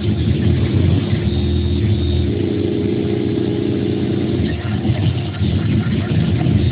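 Stone CNC router running, a steady low mechanical drone. A steady hum joins it about two seconds in and drops away around four and a half seconds in.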